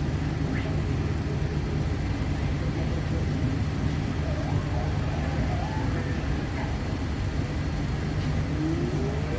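Steady low rumble of a passenger train heard from inside the carriage, even in level throughout. Faint brief higher sounds sit over it, including a faint rising tone near the end.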